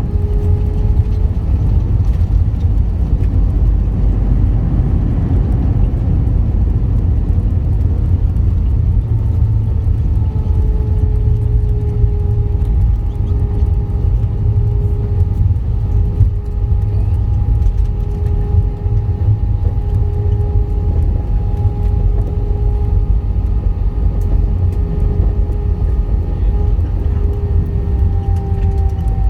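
Jet airliner cabin noise: a heavy, steady low rumble with the engines' whine held at two steady pitches, which dip slightly near the end.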